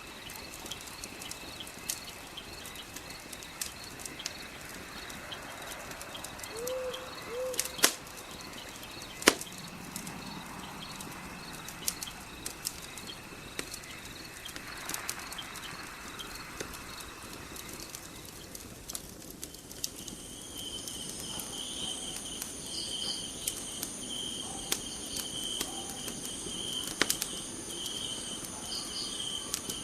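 Wood fire crackling with irregular sharp pops. About two-thirds of the way in, crickets start chirping steadily.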